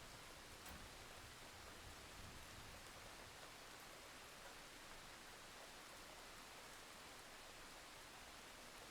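Thunderstorm rain falling steadily as a faint, even hiss, with a low rumble dying away in the first few seconds.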